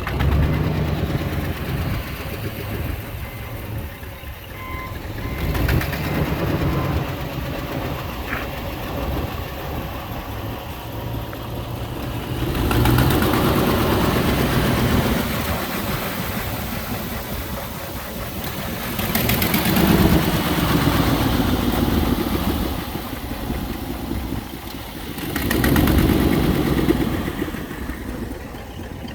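A 1997 Ford F-150's 5.4-litre V8 running at idle. It swells louder several times, about every six or seven seconds.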